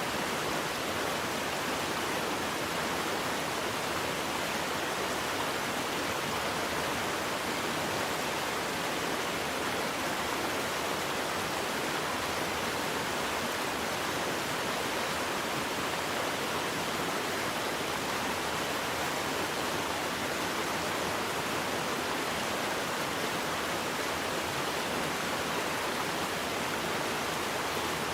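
Waterfall: falling water rushing steadily with an even, unchanging hiss.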